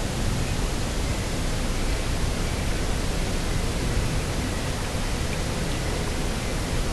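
Steady, even rush of coastal wind and sea, with a deep rumble of wind against the microphone and no distinct events.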